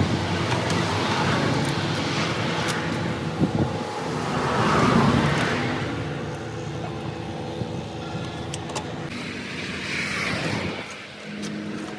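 Motor vehicle engine and road noise, swelling and fading twice, as of vehicles passing.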